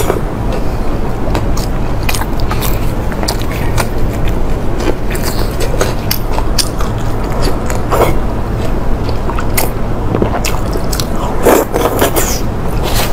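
Close-miked eating: wet chewing and biting with frequent irregular sharp mouth clicks and smacks, over a steady low rumble.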